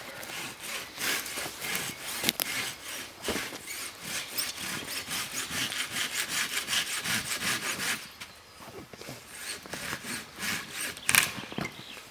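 Hand-sawing wood with a Silky Katanaboy folding pruning saw: quick, regular back-and-forth strokes for about eight seconds, then slower, scattered strokes, with one sharp louder sound near the end.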